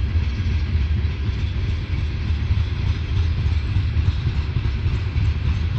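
Norfolk Southern coal train's hopper cars rolling past, a steady low rumble of wheels on the rails.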